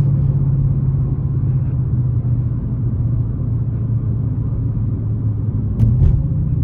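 Dodge Challenger R/T's 5.7-litre Hemi V8 running steadily under way, a low drone, with a couple of short clicks about six seconds in.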